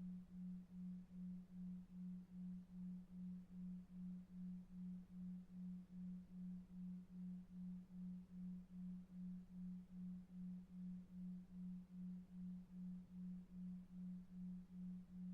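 Faint, low, pure tone pulsing evenly about two and a half times a second: a 2.5 Hz "delta wave" pulsed tone for sleep, over a faint brown-noise rumble.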